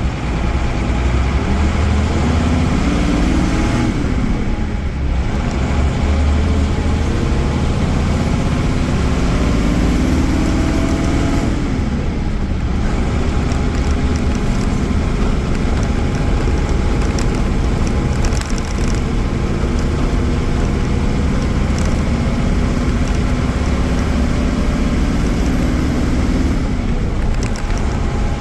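Mercedes-Benz OM-366A six-cylinder diesel engine of an OF-1318 bus pulling under load, its pitch climbing as it revs up and dropping sharply at gear changes about four, twelve and twenty-seven seconds in.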